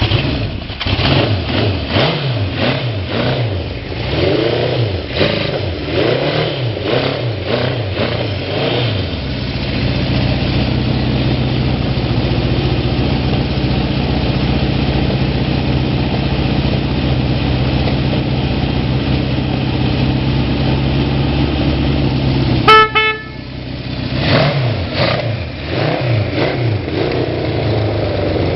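Honda CB750 K0 sandcast air-cooled inline-four, just started, revved in repeated blips for about nine seconds and then idling steadily. Near the end, one short horn beep, followed by a few more throttle blips before it settles back to idle.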